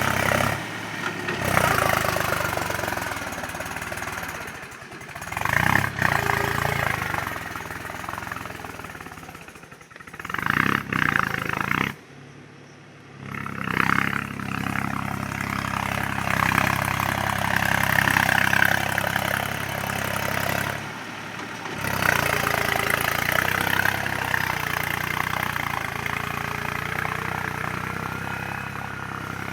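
Mahindra 275 DI tractor's diesel engine running steadily while ploughing a field, broken off abruptly several times.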